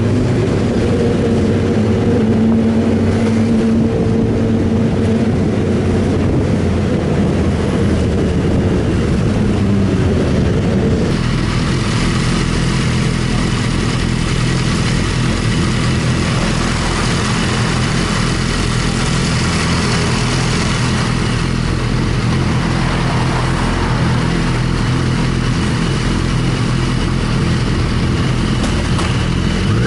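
Sportbike engine running while riding, with wind rushing past. About eleven seconds in the engine note changes and a loud rush of wind comes up. The engine note shifts again near the end.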